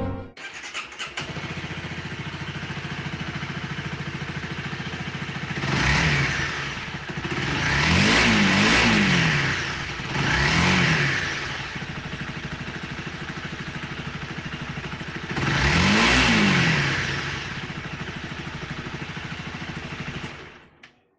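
Honda CBR250R's 249 cc single-cylinder engine idling steadily and revved four times, each rising and falling back to idle; the second rev is the longest. It cuts off suddenly just before the end.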